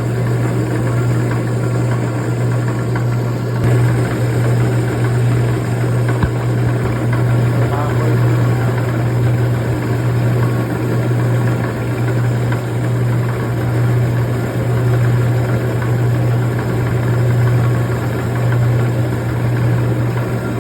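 Rock slab saw running steadily, its diamond blade cutting through a clamped piece of agate/jasper, over a constant low motor hum.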